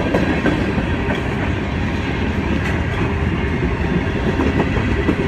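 A train passing, with the steady noise of its wheels and cars running on the rails.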